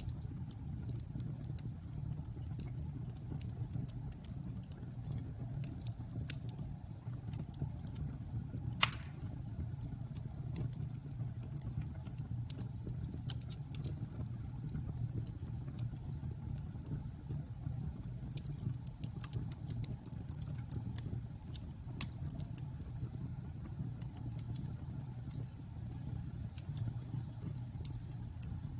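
Bonfire burning: a steady low rumble with scattered wood crackles and one loud pop about nine seconds in.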